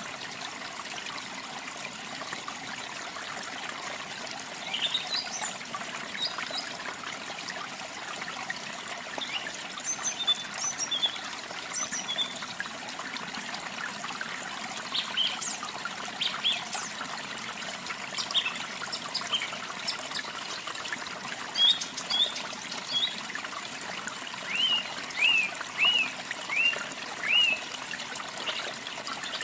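Water trickling and splashing steadily, with small birds chirping in short scattered calls over it and a run of five quick downward-sweeping calls, about one a second, near the end.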